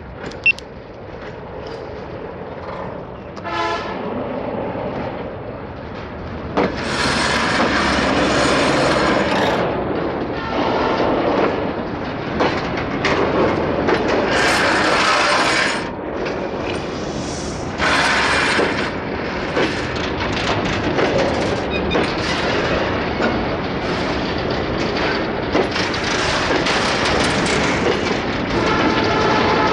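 Freight train rolling past, its wagon wheels clattering over the rails in loud waves that swell and ease. A short horn blast sounds about three and a half seconds in, and another horn-like tone comes near the end.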